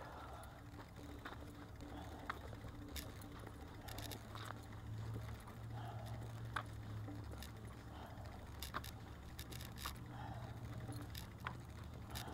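Bicycle being ridden, rattling with scattered sharp clicks and ticks over a steady low rumble of wind and tyres.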